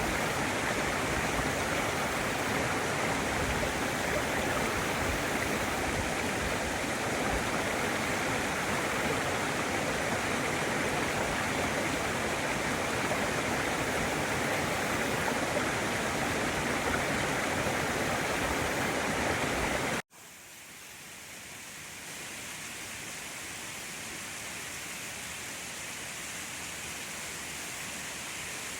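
Steady rushing roar of falling water from a waterfall. About twenty seconds in it cuts off abruptly and gives way to a quieter, hissier rush.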